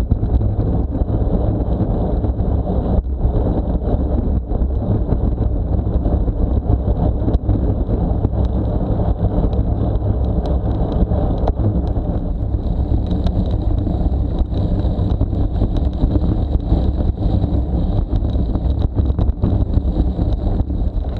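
Steady wind buffeting on the microphone with tyre and road rumble from a bicycle riding at speed, and scattered small clicks and rattles.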